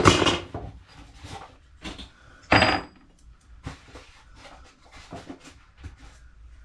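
Metal pipe fittings and tools being handled and set down: a run of knocks, rustles and clinks, with a loud clank about two and a half seconds in that rings briefly.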